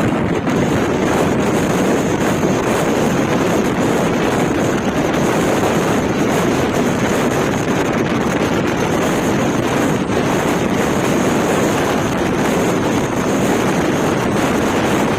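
Steady loud rumble of wind buffeting the microphone, mixed with the noise of a vehicle on the move, with no breaks or distinct events.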